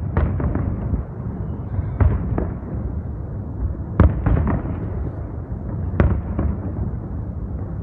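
Aerial fireworks bursting: a sharp bang about every two seconds, each followed closely by a weaker pop, over a continuous low rumble and crackle of further shells.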